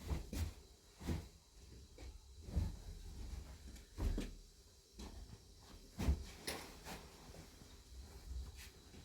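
A handful of irregular knocks and thumps, as of objects being handled and set down, the loudest about six seconds in.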